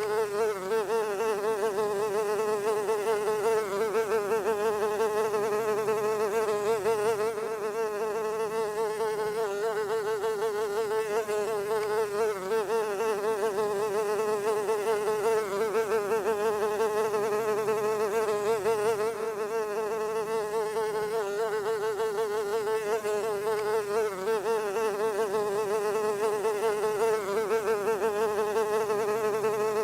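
A fly buzzing continuously, one steady drone whose pitch wavers up and down without a break.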